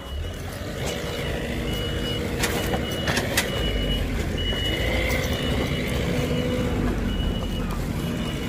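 A stuck delivery vehicle's motor running steadily under load while it is pushed through deep snow, with its reversing beeper sounding a repeated high beep.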